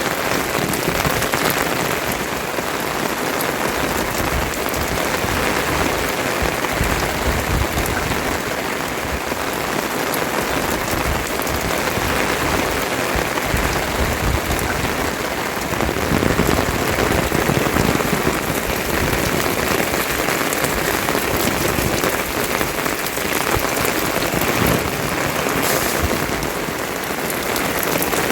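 Steady rain falling and pattering on surfaces, a dense even hiss full of close drop impacts.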